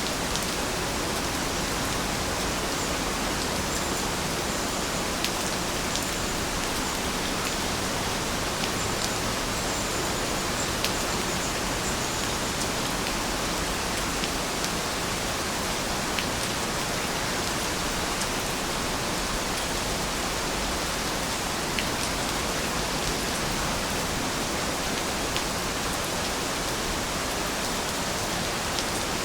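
Steady rain falling: an even, unbroken hiss with scattered sharp ticks of single drops hitting a surface.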